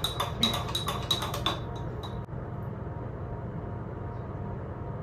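Metal spoon stirring milk and sugar into a cup of coffee, clinking against the mug about four times a second, then stopping about a second and a half in. A steady low hum continues underneath.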